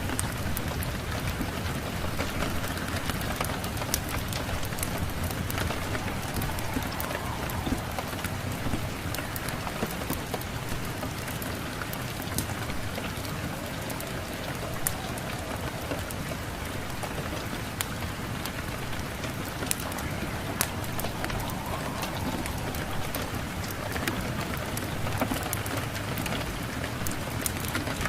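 Steady rain mixed with a wood fire crackling: a continuous hiss of rain with scattered sharp pops throughout.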